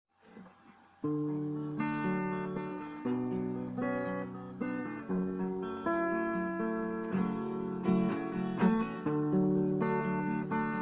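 Acoustic guitar playing picked chords, with the notes left to ring; it comes in about a second in. This is a song's instrumental introduction, before the singing begins.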